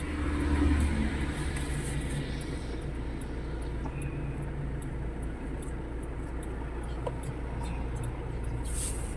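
A vehicle's engine running with a steady low rumble, with a few faint clicks over it.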